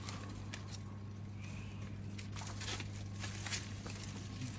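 Garden shears snipping and tangled climbing stems being pulled free through foliage: several short, crisp clicks and rustles, over a steady low hum.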